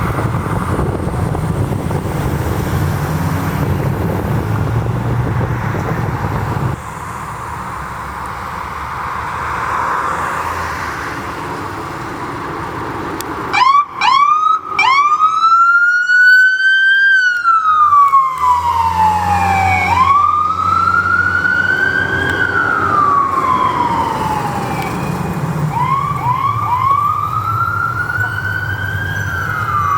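Road traffic noise, then about halfway through an emergency vehicle's siren starts with a few quick whoops and goes into a slow wail that rises and falls about every five seconds, with the vehicle's engine rumbling under it.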